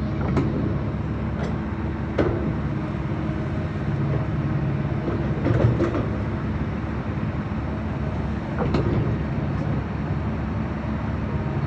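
Heavy diesel earthmoving machinery running steadily, with sharp metallic clanks every few seconds, typical of an excavator working its bucket while loading a dump truck.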